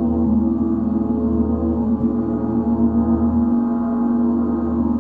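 A gong played continuously for sound healing: a dense, steady wash of many sustained overtones with a wavering low hum beneath.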